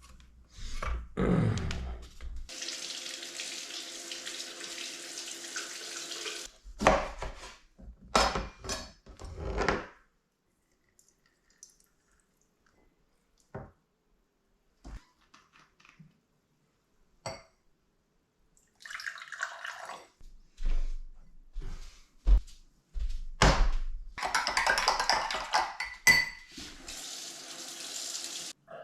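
Water running from a tap, with knocks and clinks of dishes, in two spells with a quiet gap between them.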